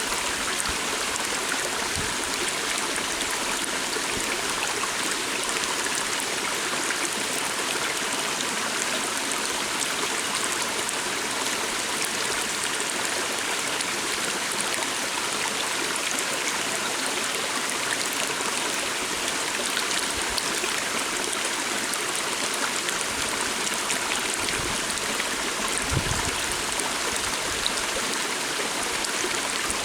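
Steady flowing water of a small stream, an even rushing babble, with one brief low bump near the end.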